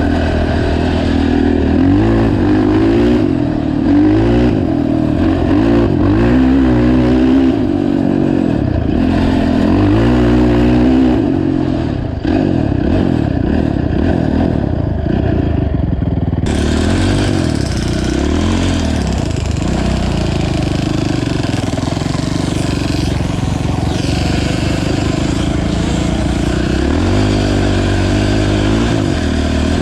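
A Honda TRX450 ATV's single-cylinder four-stroke engine running under throttle, revving up and easing off again and again. There is a brief drop about 12 seconds in. From about halfway a steady hiss joins the engine.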